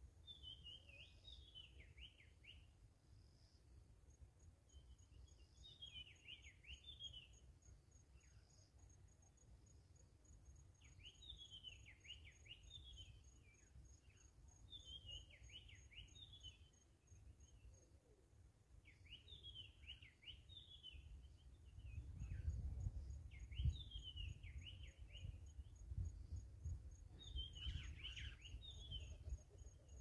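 A songbird repeats a short phrase of quick, downward-sweeping whistled notes about every four seconds. Behind it runs a fast, thin, high insect trill. A low rumble grows stronger in the last third.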